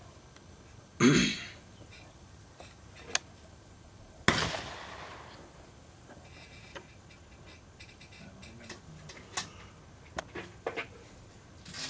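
A single rifle shot from a .223 Remington Savage Model 12 Varminter about four seconds in: a sharp report that fades out over about a second. A shorter loud burst comes about a second in, and a few light clicks follow later.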